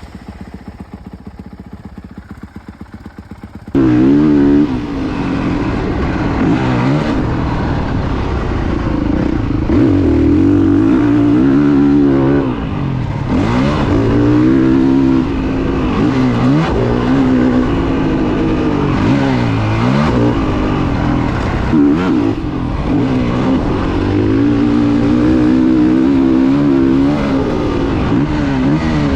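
Four-stroke motocross bike engine, quieter for the first few seconds, then loud and close, revving up and down over and over as the bike is ridden around a motocross track.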